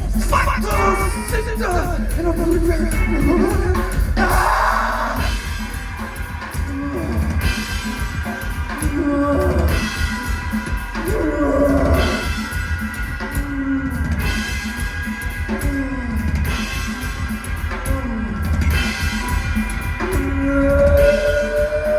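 A live rock band playing loud: drum kit, guitar and a singer's voice bending through the song.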